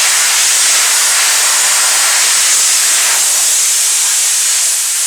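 Steam cleaner jetting pressurised steam, a loud steady hiss while degreasing a truck.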